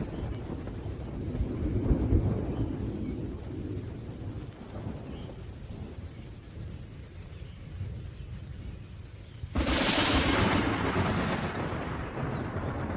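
Thunderstorm with rain: low rolling thunder rumbles, then a sudden sharp thunderclap about ten seconds in that trails off into rumbling.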